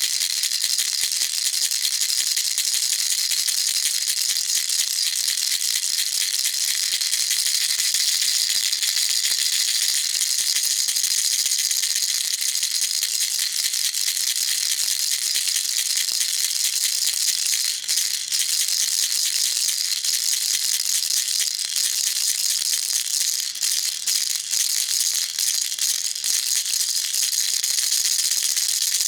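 Baby rattle shaken continuously, a dense fast rattling of small beads inside the toy, steady throughout with a few brief dips in the shaking.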